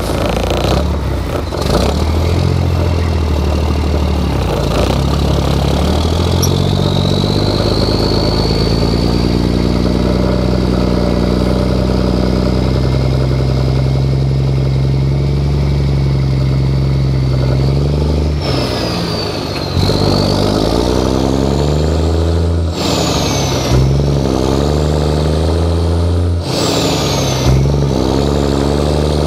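Straight-piped 11.1 L Detroit Diesel Series 60 in a heavily loaded truck, pulling hard with its pitch climbing slowly through a long gear. Then three quick gear changes on the Eaton 13-speed: each time the revs drop and build again, and a high whistle falls at each shift.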